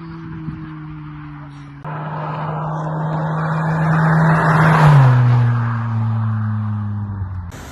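Honda Civic EP2 driving past: engine and road noise swell to a peak about five seconds in, then the engine note drops in pitch as the car goes by and fades away. Before that, a short stretch of steady engine note ends with a sudden cut.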